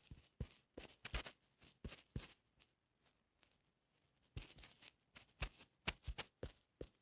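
Faint, irregular clicks and rustles in quick clusters, with a lull of about a second and a half in the middle.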